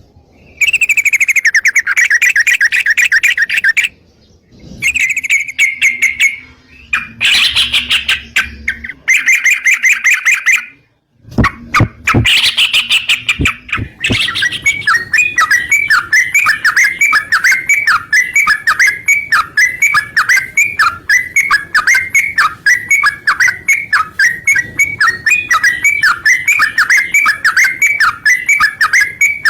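Yellow-vented bulbul (trucukan) song: loud, rapid strings of bubbly notes in several short bursts broken by brief silences. From about halfway it settles into one long, even run of repeated chattering notes, several a second.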